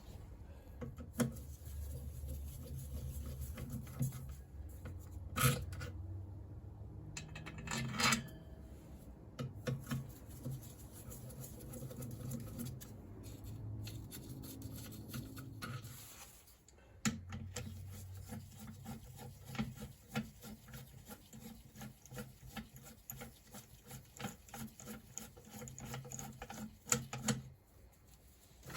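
Bolts and hand tools being handled on a motorcycle engine casing: many small scattered metal clicks, taps and scraping, coming thicker in the second half, over a steady low hum.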